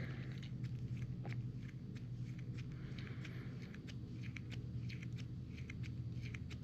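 Wheel bearing being hand-packed with grease: soft, irregular squishing and small clicks as grease is pressed through the rollers and the bearing is worked around, over a steady low hum.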